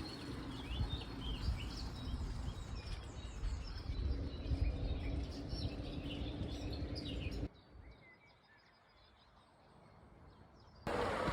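Several birds chirping and singing over a steady outdoor background noise; about two-thirds of the way through the sound cuts off abruptly to near quiet for about three seconds.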